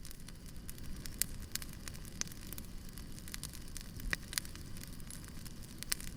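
Wood fire crackling, with irregular sharp pops and snaps, a few louder ones, over a low steady rumble.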